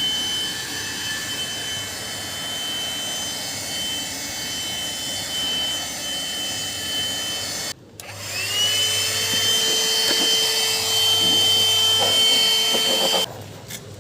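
Cordless handheld vacuum cleaner's motor running with a steady high whine. Just past halfway it drops out briefly, then spins back up with a rising whine and runs steadily until it stops abruptly near the end.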